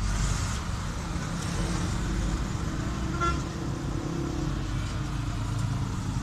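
Steady low rumble of road vehicles, with a short high tone about three seconds in.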